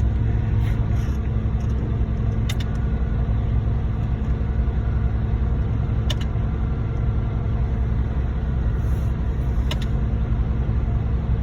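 Heavy diesel truck engines running steadily at a concrete pump pour: a ready-mix mixer truck feeding a concrete pump truck. A few faint, sharp ticks fall at roughly even intervals over the steady engine noise.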